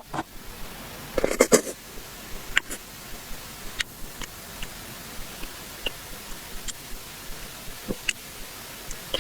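Close-miked eating sounds: a loud wet smack or slurp about a second and a half in, then scattered small clicks and ticks of chewing and mouth noises.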